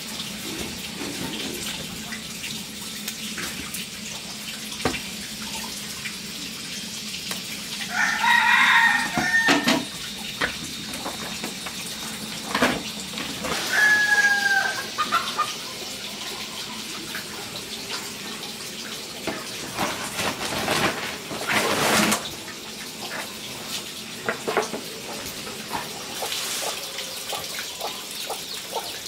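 Rooster crowing: one long crow about eight seconds in, then a shorter chicken call a few seconds later, over a steady background hiss.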